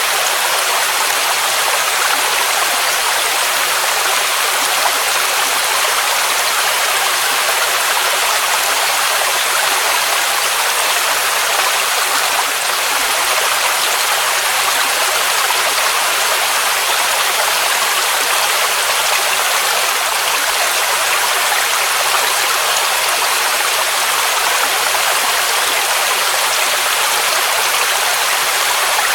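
Waterfall: a continuous rushing of falling water, a steady hiss weighted toward the high end with little low rumble.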